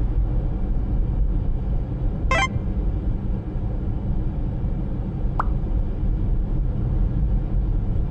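Steady low rumble of a moving vehicle, with a short warbling blip about two seconds in and a brief thin tone a few seconds later.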